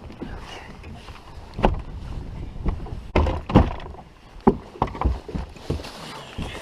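Several irregular knocks and thumps on a fishing boat, the loudest a little over a second in and about three and a half seconds in, over a steady noisy background.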